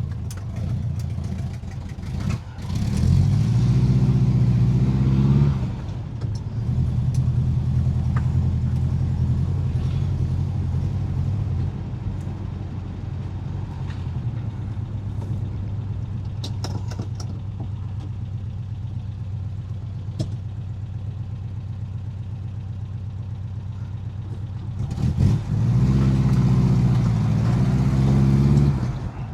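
Ford 17M's 1.7-litre V4 engine under way, pulling up through the revs with a rising note about three seconds in and again near the end, and running at a steady cruise in between.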